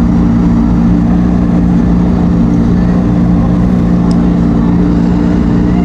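Motorboat engine running steadily at a constant pitch, with no revving.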